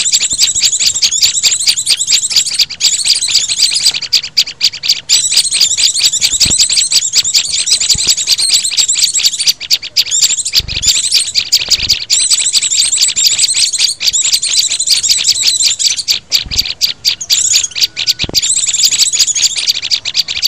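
Bird-lure recording mixing the calls of small songbirds such as sunbirds, white-eyes, prinias and flowerpeckers: a loud, dense stream of rapid high-pitched chips and trills with only brief pauses, used to draw small wild birds in.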